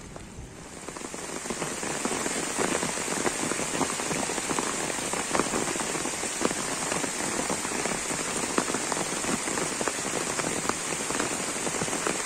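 Heavy rain pouring onto a river's surface and its bank: a steady hiss dotted with many individual drop hits, growing louder over the first second or two and then holding steady.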